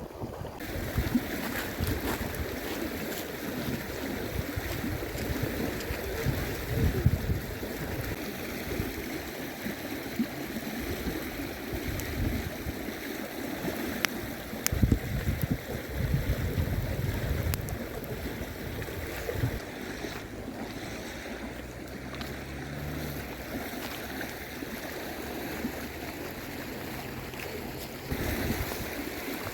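Steady rush of flowing river water, with wind gusts buffeting the microphone.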